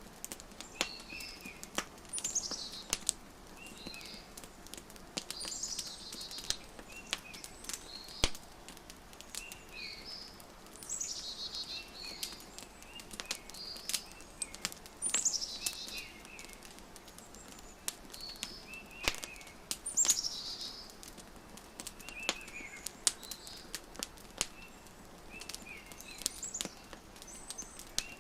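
Wood fire crackling with frequent sharp pops, mixed with songbirds singing repeated short chirps and trills.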